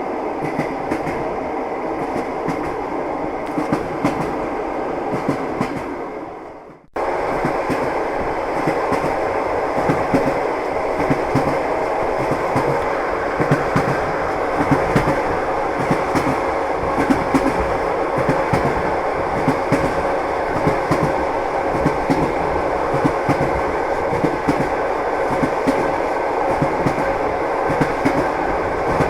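Train wheels clattering over the rails with the steady rumble of a moving railway carriage. About seven seconds in the sound fades out briefly and cuts straight back in, a little louder.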